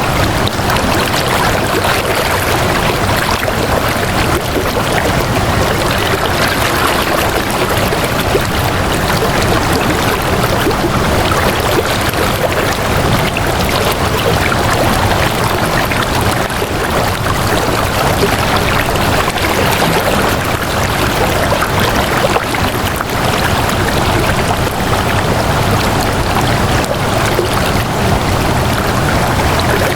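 Flowing water running steadily, an even rushing sound with no breaks or changes.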